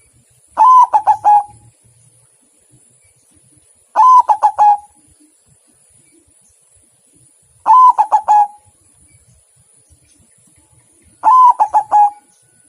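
Zebra dove (perkutut) singing: four cooing phrases, each a higher first note followed by a quick run of lower coos, repeated every three and a half seconds or so.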